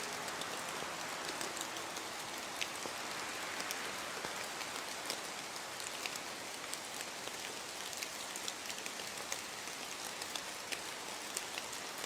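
Steady rainfall, an even hiss of rain with scattered sharp ticks of individual drops striking close by.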